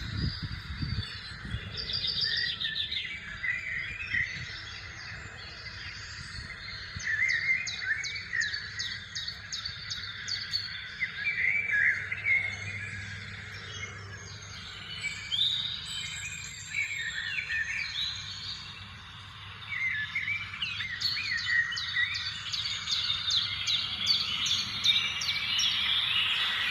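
Several birds chirping and calling together in trees, with runs of rapid repeated notes about a quarter of the way in and again near the end.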